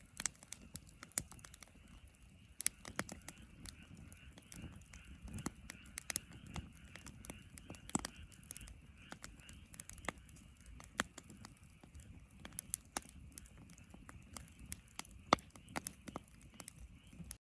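Wood fire crackling and popping in a fire pit, with irregular sharp pops over a low rumble.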